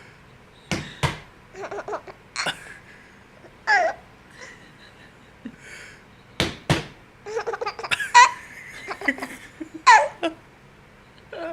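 Baby laughing in short giggles and belly laughs in response to knocking. Two sharp knocks come about a second in, and two more about six and a half seconds in, each pair followed by bursts of laughter.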